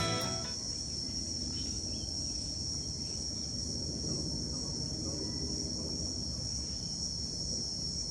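Insects, crickets or cicadas, keeping up a steady high-pitched drone without a break, over a faint low rumble. The tail of guitar music fades out in the first moment.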